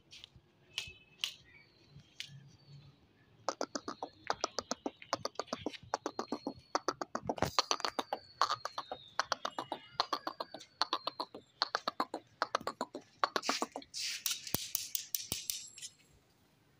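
A bird calling: a fast run of sharp clicks, about six a second, with thin high whistles gliding over them, and a short burst of hiss near the end.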